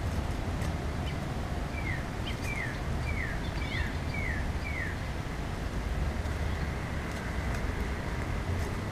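A bird calling a series of six short, falling notes in quick succession, from about two seconds in to about five seconds in, over a steady low rumble, with a few faint clicks.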